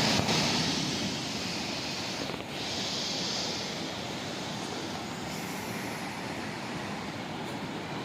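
Steady rushing noise of fast-flowing floodwater in a river, loud and even throughout.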